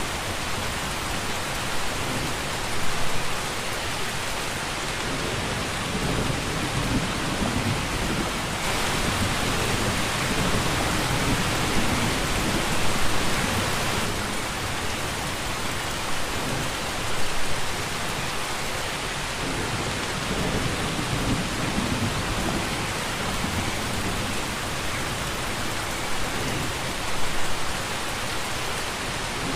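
Steady heavy rain falling, with low rumbling thunder underneath and a few brief louder swells.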